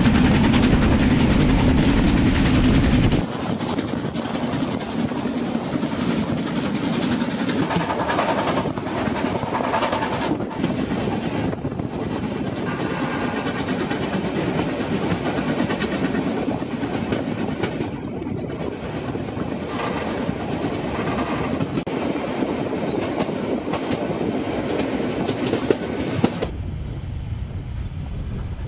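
Harz narrow-gauge steam train running, its wheels clattering on the rails. The sound changes abruptly about three seconds in, and becomes thinner and quieter near the end.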